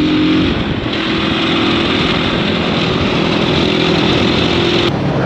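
Motorcycle engine running steadily while riding, under a heavy rush of wind on the microphone; the wind hiss drops away suddenly near the end.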